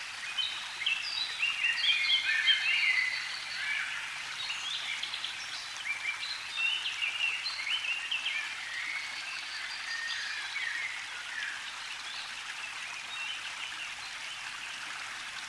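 Several songbirds singing in a dense chorus of short chirps and whistles, busiest in the first few seconds and thinning toward the end, over a steady hiss like running water.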